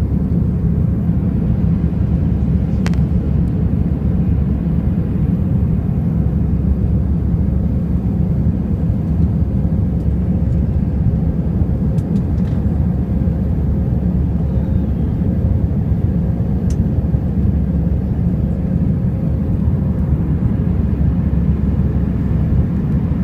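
Steady low roar of a jet airliner's engines and airflow during the climb after take-off, with a faint steady hum and a few small clicks.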